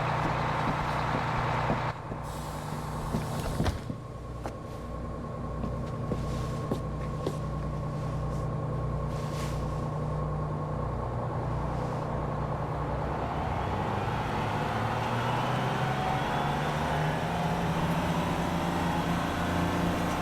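Bus engine running at a stop, with a few sharp knocks about three to four seconds in, then its noise swelling from a little past the middle as it pulls away.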